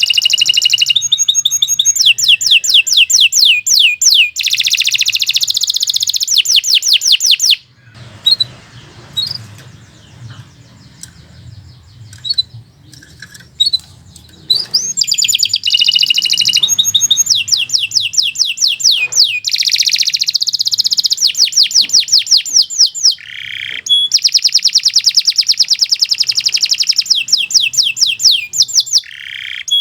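Domestic canary singing long, rapid trills of quickly repeated high notes. Near the middle there is a break of several seconds with only a few scattered single chirps, and then the trilling song starts again.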